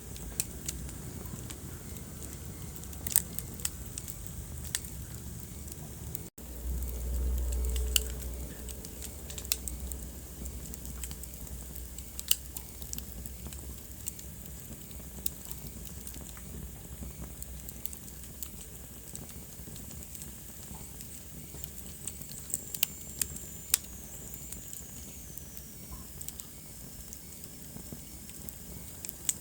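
Wood fire crackling in a fireplace, a steady hiss broken by irregular sharp pops. About six seconds in the sound drops out for an instant, then a low rumble swells for a few seconds, and later a faint high whistle slides down in pitch.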